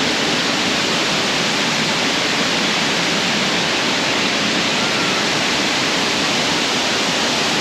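Waterfall heard up close: a loud, steady rush of water falling onto the rocks and pool below.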